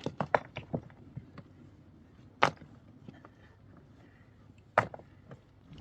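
Sharp wooden knocks and clacks, as of timber being struck or handled: a quick run of small knocks in the first second, then two single louder knocks, about two and a half seconds apart.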